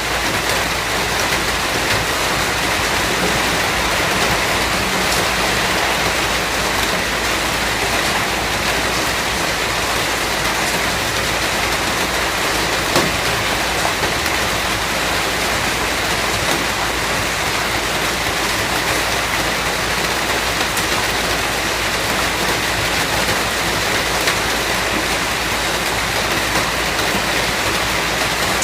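Steady heavy rain: a dense even hiss with many small drop ticks and no let-up.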